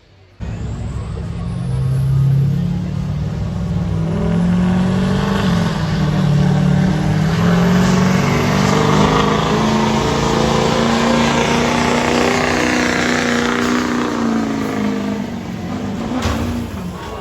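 Diesel pickup truck engine at full throttle during a truck-pull run. The engine note comes in abruptly, climbs over the first few seconds and holds high, then drops away near the end as the throttle comes off.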